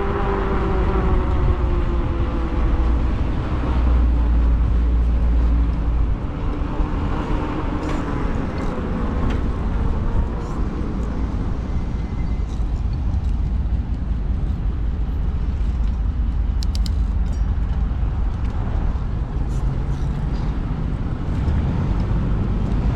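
Steady wind rumble on the microphone of a moving e-bike, with road traffic around it. In the first few seconds a whine falls in pitch and fades.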